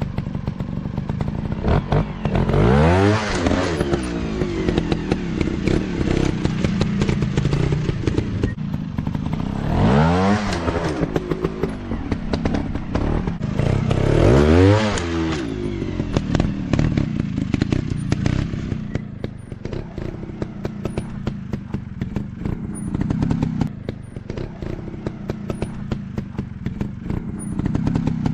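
Dirt bike engine running and revving hard three times, about 3, 10 and 14 seconds in, each rev rising and falling in pitch. It then settles to a quieter, steadier run, with clattering throughout.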